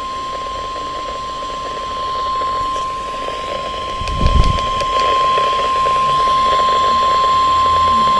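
NOAA Weather Radio warning alarm tone: one steady, unbroken high tone held throughout, over radio hiss, signalling that a weather warning is about to be read. A brief low thud about four seconds in.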